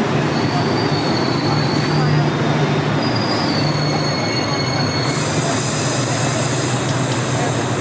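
Enoden (Enoshima Electric Railway) train running by on the track with a steady low hum. Its wheels squeal twice in high-pitched stretches, and there is a hiss about five seconds in.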